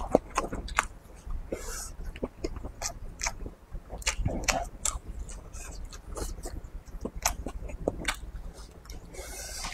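A person chewing and biting food with chopsticks, with many short clicks and smacks of the mouth.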